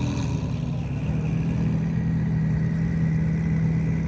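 A car engine running steadily at a constant pitch, a low even hum with no revving.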